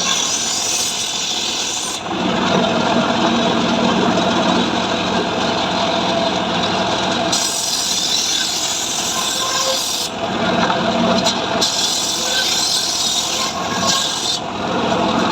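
Two-stroke chainsaw ripping lengthwise through dry mahogany. Stretches of hissing cutting noise while the chain is in the wood, at the start, about halfway and again near the end, alternate with the engine running under lighter load.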